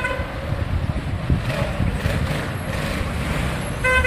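Road traffic running steadily, with a car horn sounding briefly at the start and a couple of short honks near the end.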